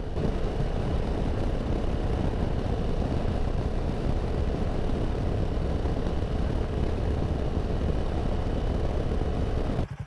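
Royal Enfield Himalayan 450's single-cylinder engine running steadily at cruising speed on the road, mixed with rushing wind and tyre noise. The sound cuts off suddenly just before the end.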